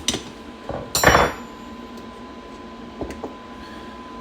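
Small metal carburettor parts and tools clinking on a workbench: a few light clicks, then a louder metallic clatter with a brief ring about a second in, and two more light clicks near the end.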